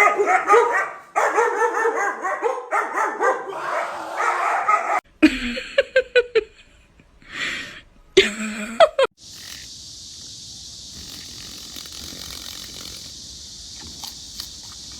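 A dog barking and yipping in rapid short calls for about five seconds, then a few separate short sounds. From about nine seconds in, a steady high hiss.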